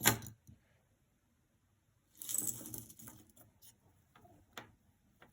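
Costume jewelry being handled and sorted: a brief rustling clatter of pieces about two seconds in, then a few light, separate clicks.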